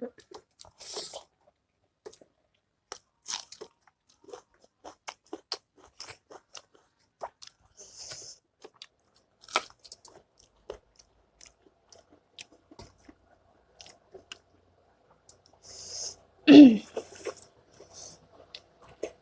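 A person chewing pork-fat pickle with rice, heard close up: many small crunches and clicks, with a few short hisses. About three-quarters of the way through comes the loudest sound, a short vocal sound falling in pitch.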